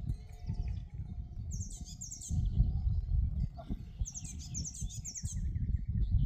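Songbirds chirping in short, quick high-pitched phrases, repeated several times, over a steady low rumble.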